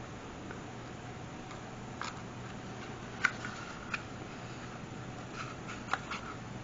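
A few light, sharp clicks and taps from handling small craft pieces (paper, ribbon, metal brads) on a work surface, the loudest a little over three seconds in, over a low steady hum.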